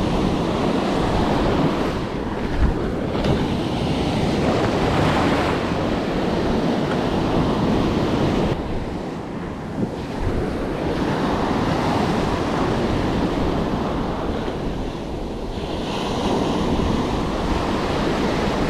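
Gulf of Mexico surf washing in around the legs, its rush swelling and easing every few seconds, with wind buffeting the microphone.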